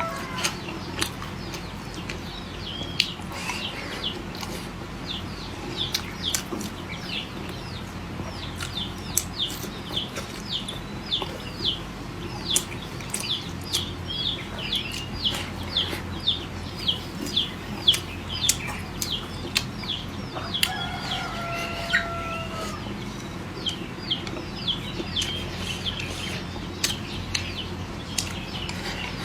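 Poultry calling: a steady run of short, high, falling chirps, two or three a second, with a longer held call about twenty seconds in. Scattered sharp clicks and a low steady hum sit underneath.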